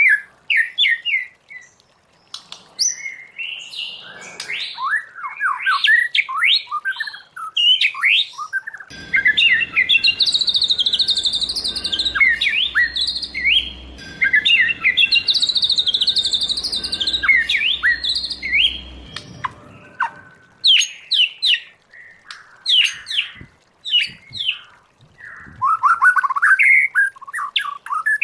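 White-rumped shama singing: a long run of rapid, varied whistled phrases with quick rising and falling glides. From about nine to twenty seconds in, the song is denser and higher and sits over a low background rumble.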